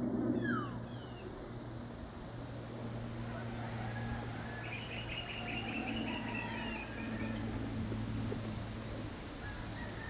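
Birds calling: a few quick falling chirps near the start, then a rapid trill of repeated notes around the middle and more short chirps later, over a steady low hum.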